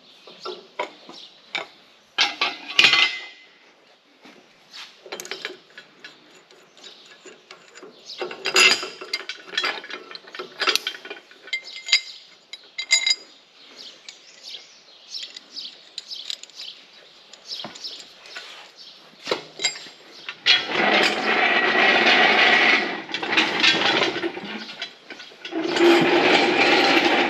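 Metal clinks, clanks and knocks of shop work as an engine hoist (cherry picker) is unhooked from a tractor loader, followed by two longer, steady runs of rough mechanical noise, the first about two-thirds of the way through and the second near the end.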